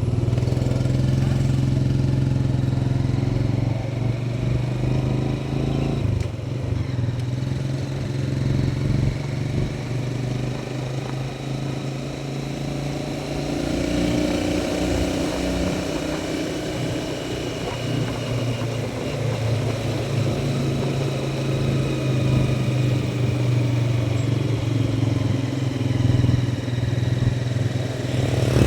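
Motorcycle engine running steadily while riding, its note shifting a little a few times.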